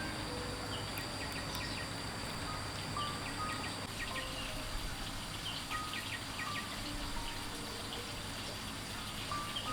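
Soft background music, a slow melody of single held notes, over a steady high insect drone and scattered bird chirps.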